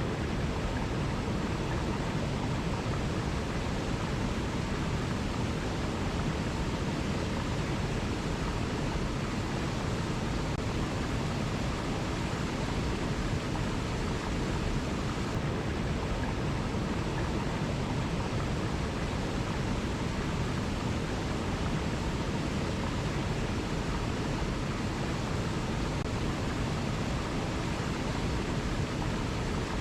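Waterfall: a steady rush of falling water, strongest in the low end, with no changes or separate events.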